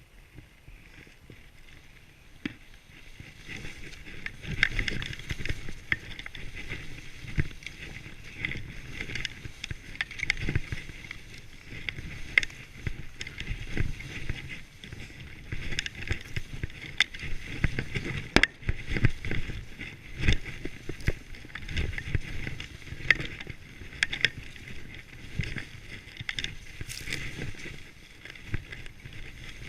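Skis swishing through deep powder snow, a rush of noise that swells with each turn, starting a few seconds in.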